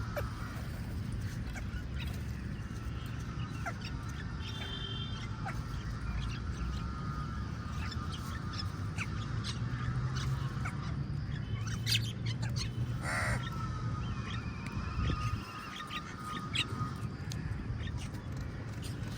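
Crows cawing, with one loud harsh caw about two-thirds of the way through, over a steady low rumble.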